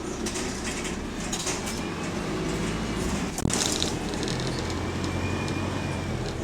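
Interior of a single-decker diesel bus on the move: a steady low engine hum with road and body noise, a faint high whine coming and going, and one sharp clunk about three and a half seconds in.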